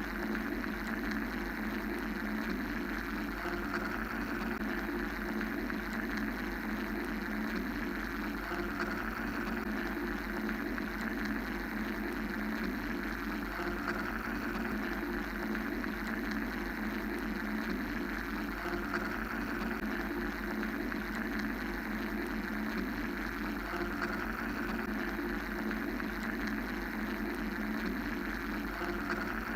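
Steady mechanical white-noise ambience: a continuous low hum with an even hiss above it, running without a break or change.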